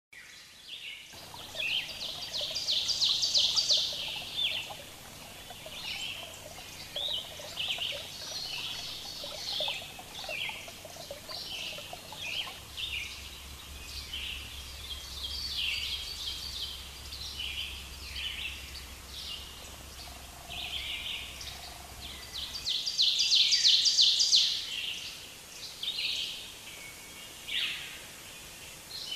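Several birds singing and chirping, with a fast, loud trill about two seconds in and again near the end, over a faint steady low hum.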